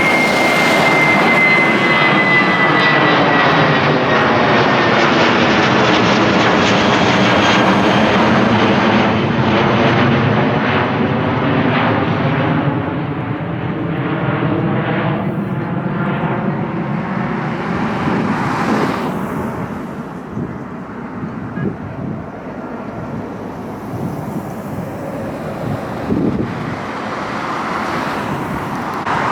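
Widebody jet airliner's engines on takeoff climb-out passing low overhead: loud jet noise with a thin high whine that falls slightly in pitch and a sweeping, phasing swirl as it passes. It fades over the second half, and jet noise with the whine starts building again near the end.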